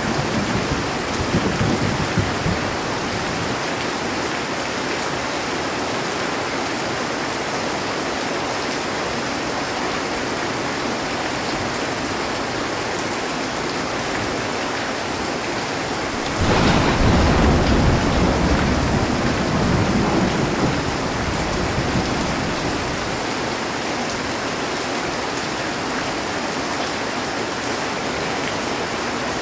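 Heavy rain falling steadily on a metal roof. A thunderclap breaks in a little past the middle and rumbles away over several seconds, and the tail of an earlier rumble fades out at the start.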